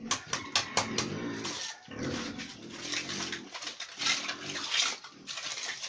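Pig grunting in a run of short, repeated calls, with a few sharp knocks in the first second.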